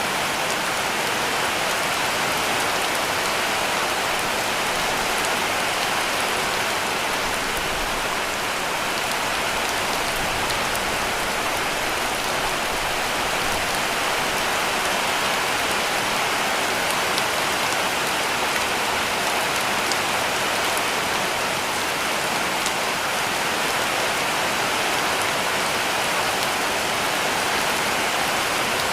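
Heavy rain falling steadily on a cabin roof: an even, unbroken hiss with a few faint drop taps.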